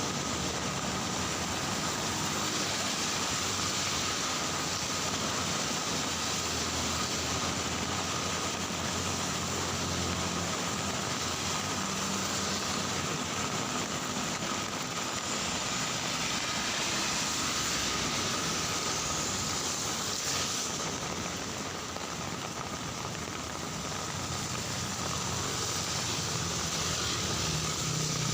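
Heavy rain falling steadily, with motor traffic running along the wet street.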